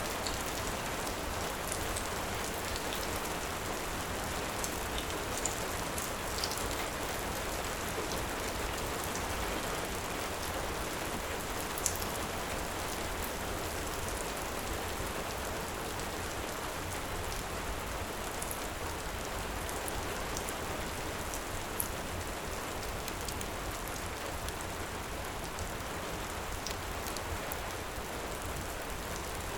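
Steady heavy rain, an even hiss of falling water, with a few sharp crackles scattered through it, the loudest about twelve seconds in.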